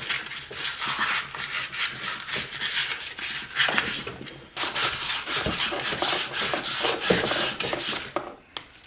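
Abrasive or file being rubbed back and forth by hand over metal on a small engine part, cleaning it up, in quick rapid strokes. The strokes pause briefly a little past halfway and again near the end.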